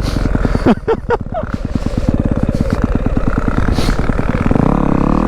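Dirt bike engine running at a slow, even putter, with a few quick rising revs about a second in, then revving up to a higher steady pitch near the end.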